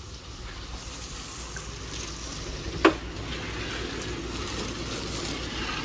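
Steady hiss of water spraying, as in washing a vehicle with a hose, with one brief sharp sound about three seconds in.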